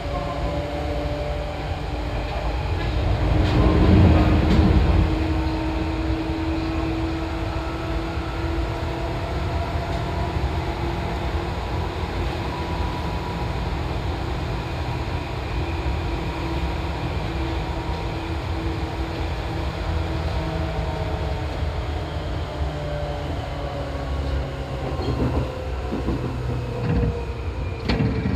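Seibu 2000 series electric train running: a steady rumble of wheels on rail, with a motor hum whose pitch slowly drifts. About four seconds in the noise swells louder for a couple of seconds, and a few knocks come near the end.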